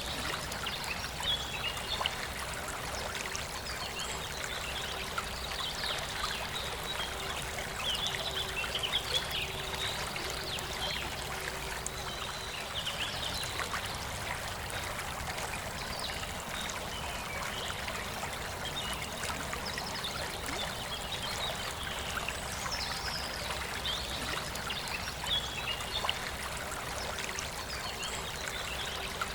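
Forest river flowing steadily, with birds chirping in short bursts now and then above the rush of water.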